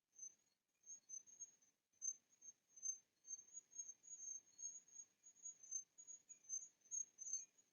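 Insects chirping in a thin, high-pitched, pulsing trill. It is faint at first and steadier from about two seconds in.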